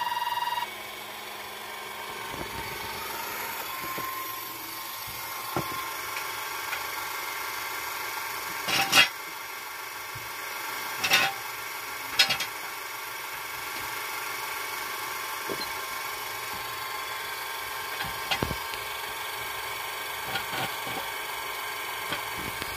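Hand tools working on a car's wheel and brake: a few sharp metallic clanks and some scraping, over a steady faint hum.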